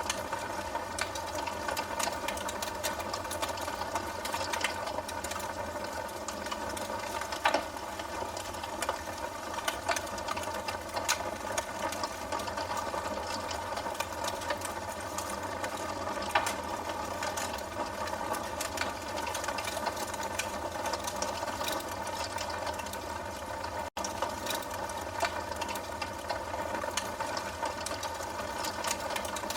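Wood fire burning in a fireplace: irregular sharp crackles and pops over a steady hum. The sound drops out for an instant about 24 seconds in.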